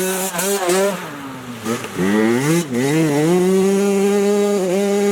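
Dirt bike engine revving: quick blips that rise and fall, then held at high, steady revs for about two seconds before dropping off right at the end.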